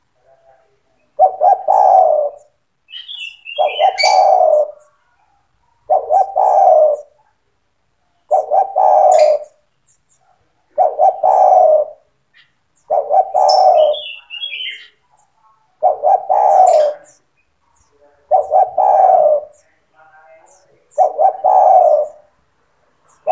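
Spotted dove (tekukur) singing its cooing phrase over and over, about ten times at an even pace of one every two and a half seconds. A few short, higher chirps come in between, about three seconds in, near the middle and at the end.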